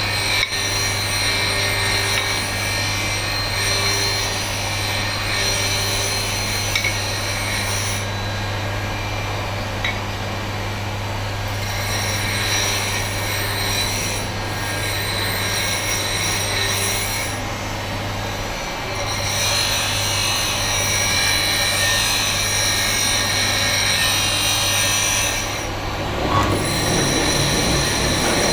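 Power tool grinding stone: a continuous abrasive grinding noise over a steady low motor hum, easing off briefly a few times.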